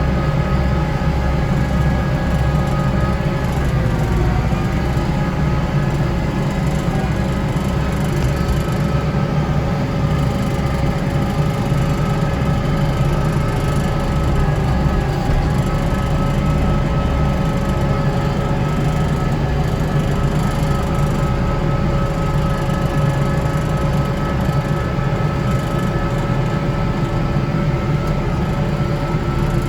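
Kubota tractor with a front-mounted snow blower running steadily: a heavy low engine drone with a steady whine over it that shifts slightly in pitch now and then.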